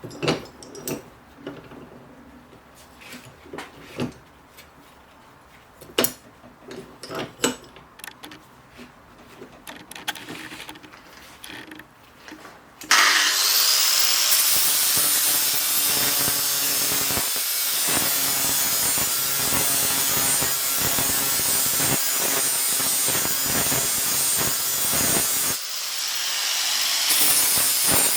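Scattered clicks and knocks of tools and workpieces being handled. About halfway through, a power tool starts suddenly and runs steadily and loudly, working on the axe head or its handle.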